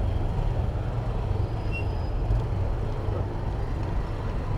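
Steady city traffic noise with a heavy low rumble, heard while riding a bicycle among cars, buses and trucks.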